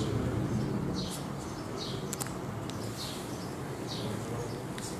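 Faint high-pitched chirps repeating about once a second over a low steady hum.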